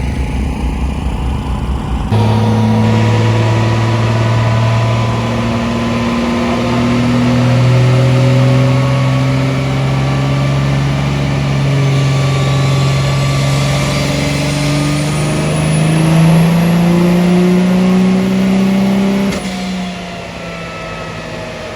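Truck engine running loud, its pitch climbing slowly and steadily as the revs rise, with a faint high whine rising in the middle. The sound starts and stops abruptly about 2 seconds in and near the end.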